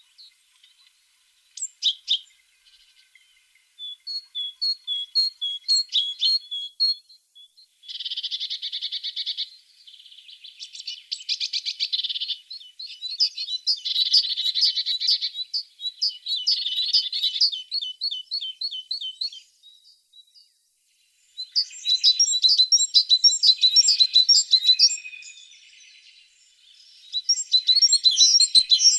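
Tits singing: runs of short, high repeated notes and quick trills with brief pauses between phrases, turning to denser, busier chirping a little past halfway and again near the end.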